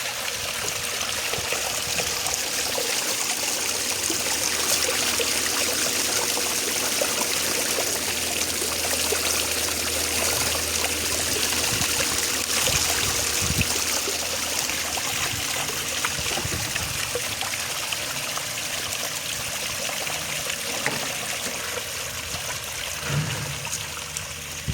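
Water trickling and splashing steadily down a small sand-and-cement artificial-stone waterfall, with a faint steady hum underneath.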